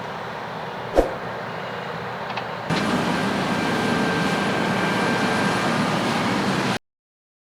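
Steady running noise of farm machinery, with a sharp click about a second in. The noise jumps louder partway through, then cuts off abruptly to silence near the end.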